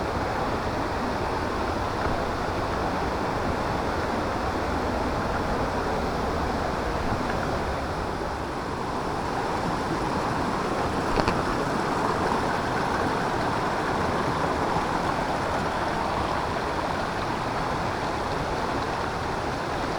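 Steady rush of a jungle river's flowing water, with one brief click about eleven seconds in.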